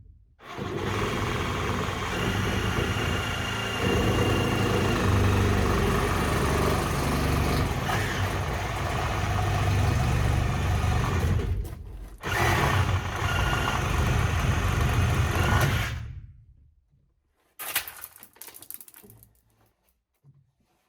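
A handheld power tool running under load in two long runs, the first about eleven seconds and the second about four, with a short stop between them. A few light clatters follow near the end.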